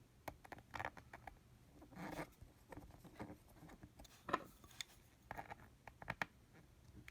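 Scattered small clicks and brief rustles: tiny laptop screws and parts being handled and tried in place. The clicks come irregularly, about a dozen, with a longer rustle about two seconds in.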